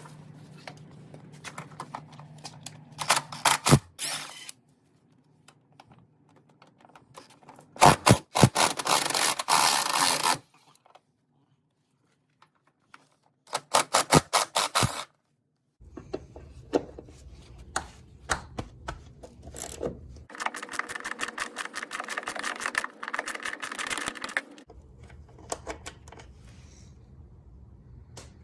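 Ratchet wrench clicking in several quick bursts with pauses between, working the hinge bolts on a car door.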